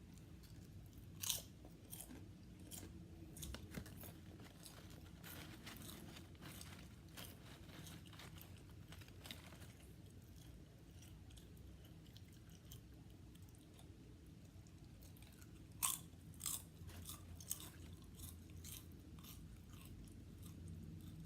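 Potato chips being bitten and chewed close to the microphone: scattered crisp crunches, with sharp loud bites about a second in and again about three-quarters of the way through. A faint low steady hum runs underneath.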